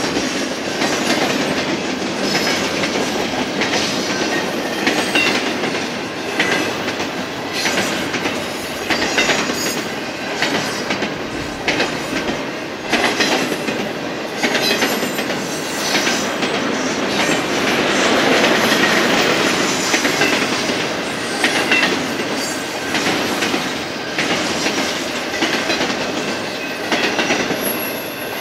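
Double-stack intermodal freight cars rolling past: steel wheels clatter steadily on the rails with many sharp clicks, and now and then a brief, faint wheel squeal.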